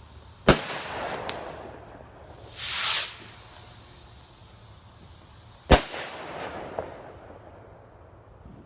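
Fireworks going off: two loud bangs about five seconds apart, each trailing off in a rolling echo. Between them comes a short, high hissing rush, with a smaller crack after each bang.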